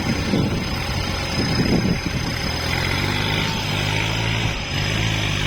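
Kubota tractor's diesel engine running, settling into a steady even drone about halfway through.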